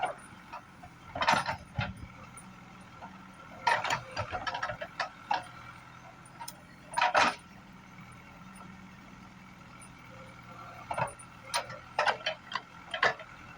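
CAT 424B backhoe loader's diesel engine running steadily under the clatter of the machine at work, with irregular metallic knocks and scrapes coming in clusters.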